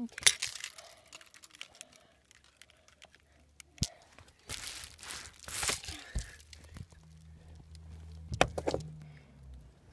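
Craftsman 3/4 horsepower chain-drive garage door opener started by its wall button: a few clicks and rattling, then a steady low motor hum for about three seconds near the end.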